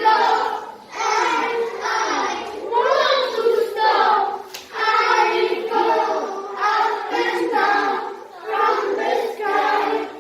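A group of children singing together in unison, phrase after phrase with short breaks between, with one brief click about halfway through.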